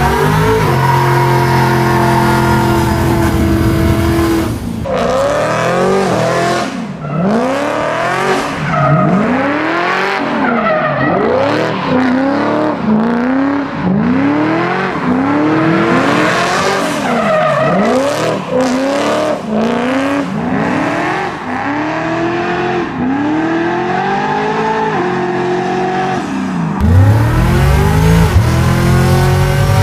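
V8 muscle car engine held at steady high revs, then revved up and down over and over, about once a second, over squealing, spinning tyres. Near the end it drops back to a steady low running note.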